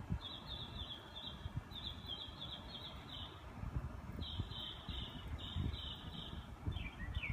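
A small songbird singing a rapid series of repeated high chirping notes, in three runs with short breaks between them, over a low rumble.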